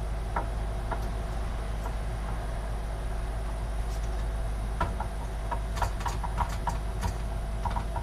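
Small clicks and taps of a motherboard being worked into a metal PC case, a few early on and a quick cluster in the second half, over a steady low hum.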